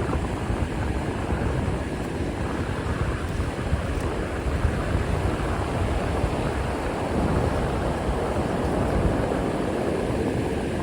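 Steady rush of river water tumbling over the falls, an even unbroken roar of noise.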